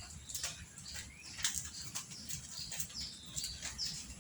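Small birds chirping: a quick run of short, high chirps, some sliding downward in pitch, over a low background rumble.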